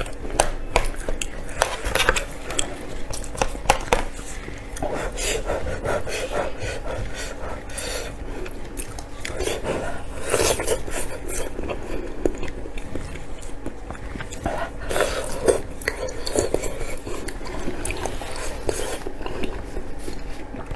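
Close-up eating sounds: biting and chewing cured pork, with utensils clicking against a dish, the clicks most frequent in the first few seconds.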